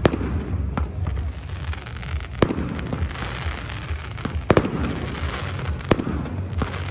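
Fireworks display: aerial shells bursting in sharp bangs every second or two, the two loudest about two and a half and four and a half seconds in, with crackling between them.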